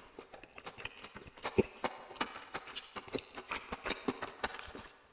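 Close-miked chewing of a mouthful of braised meat: irregular wet mouth clicks and smacks, with one sharper click about one and a half seconds in.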